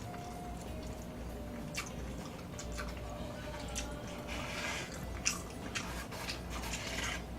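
Close-up eating sounds: chewing with small wet clicks and crackles, over a low steady hum.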